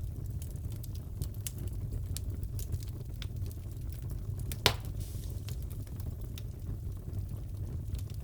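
Crackling wood fire in a fireplace: a steady low rumble of burning with frequent small crackles, and one louder pop a little past the middle.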